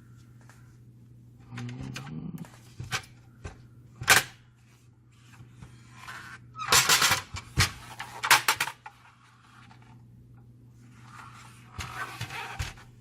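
Hands handling and taking apart a laser-printer fuser unit: scattered sharp clicks and knocks of plastic and metal parts, a busy stretch of clattering in the middle, and rustling near the end. A steady low hum runs underneath.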